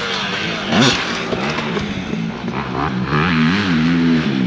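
Dirt bike engine revving up and down, with a quick blip about a second in, then held at a fairly steady pitch with small rises and falls.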